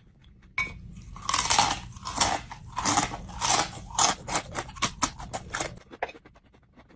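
Close-up mouth sounds of a person eating: a rapid run of crunching and chewing clicks that starts about half a second in and stops about a second before the end.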